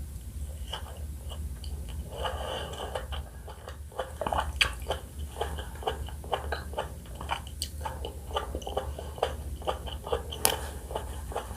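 Close-miked eating of pomelo: irregular wet crackles and clicks as the juicy pulp is bitten and chewed, over a low steady hum.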